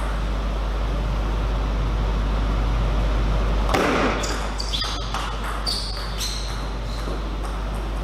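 Table tennis ball clicking and bouncing in a cluster of sharp knocks a little after halfway, over a steady low hum.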